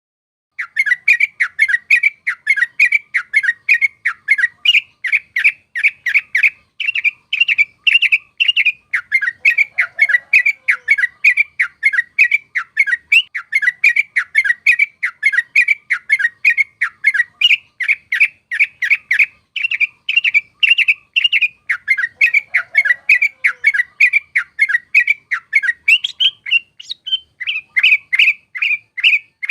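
Yellow-vented bulbul (trucuk) singing a fast rolling chatter of short repeated notes, about three a second, with a brief pause and a single rising note near the end.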